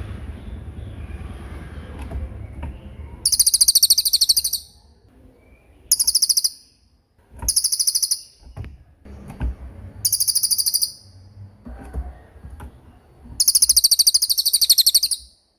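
A small songbird giving rapid, very high-pitched rolling trills, the shooting 'roll' calls used for training songbirds. There are five separate bursts of about half a second to a second and a half each, the last and longest near the end, over a low rumble at the start and a few soft knocks.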